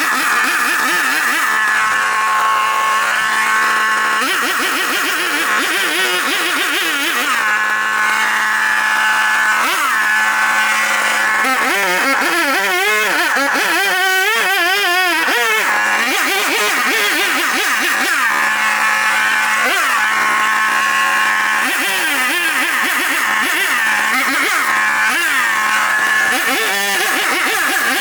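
Small engine running, its pitch rising and falling over and over as the throttle is worked.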